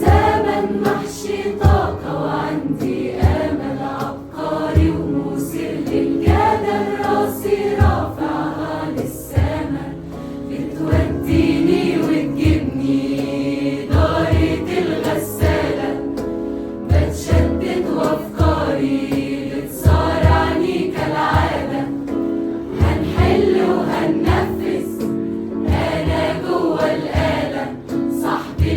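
A choir singing a song in Arabic over instrumental backing, with a steady percussion beat.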